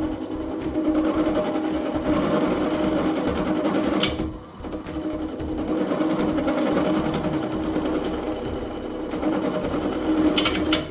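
Wood lathe running with a turning tool cutting a spinning resin-and-Lego blank held between centers, a steady machine hum under rough cutting noise. The sound drops briefly about four seconds in, then resumes, with a few sharp clicks near the end.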